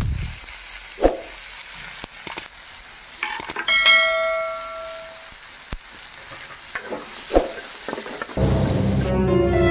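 Onions, tomatoes and green peas sizzling in a steel kadhai while a spatula stirs them, scraping and knocking against the pan several times. One knock about four seconds in sets the pan ringing briefly.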